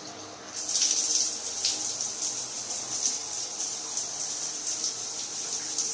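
Water running steadily, starting with a rush about half a second in, as from a shower or tap turned on.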